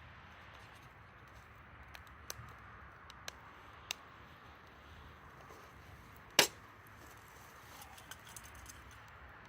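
Campfire of burning wood crackling softly, with scattered sharp pops and one much louder snap about six seconds in.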